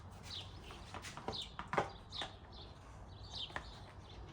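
Small bird chirping over and over, each chirp a short high note sliding down, with a few light knocks and clicks in between.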